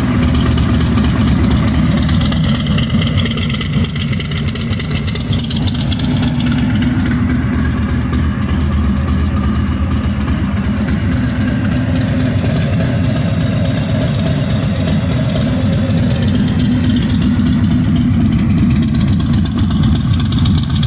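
Harley-Davidson Milwaukee-Eight 114 V-twin idling steadily through a Trask Assault 2-into-1 exhaust, with a little bit of a gallop: the lopey idle it has after its dyno tune.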